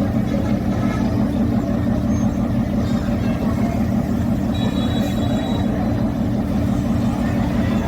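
Steady, even engine hum of a train's diesel engine idling, with a faint brief high tone about five seconds in.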